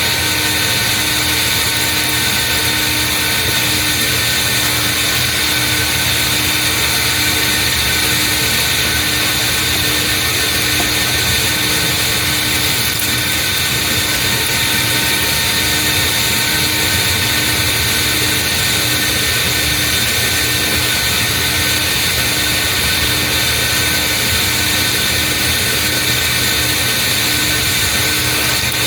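Vacuum cleaner running steadily while vacuuming out a car's interior: a constant rushing motor noise with a steady whine in it.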